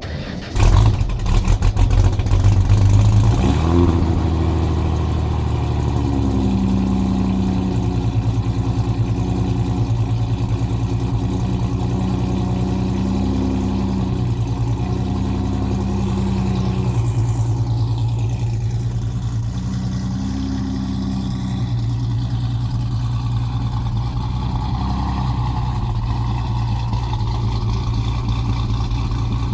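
2004 Ford Mustang's ProCharger-supercharged 3.9L V6, with long-tube headers, an H-pipe and Pypes Prostreet mufflers, starting cold: a brief crank about half a second in, then it catches and revs up for a few seconds before settling to a steady idle. A high whine falls in pitch about halfway through.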